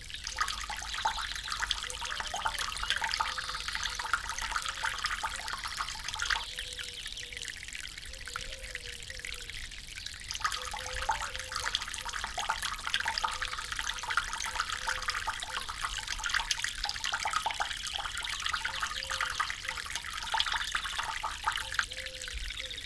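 A small stream of water trickling and splashing, heavier for the first few seconds and again through the second half, with a lighter spell in between.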